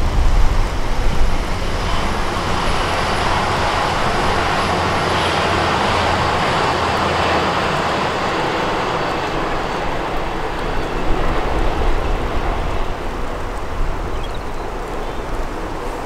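Hitachi Class 802 Nova train passing along the line below, its noise swelling to a peak about six seconds in and slowly fading as it draws away. Wind buffets the microphone with a low rumble at the start.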